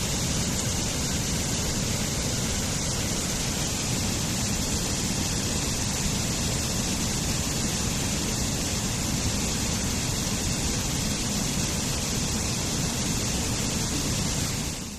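Waterfall: the steady, even noise of falling water, dipping sharply at the very end.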